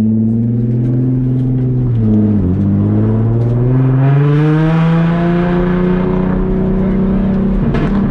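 Drift car engine running under load: its pitch holds, dips briefly about two and a half seconds in, then climbs from about four seconds and holds higher, with a hiss rising as it climbs.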